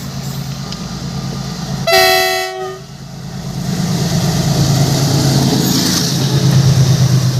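A train's horn sounds once, a short blast of under a second about two seconds in, over the steady low rumble of a train on the track. After it the rumble and rattle of the train grows louder as it comes on.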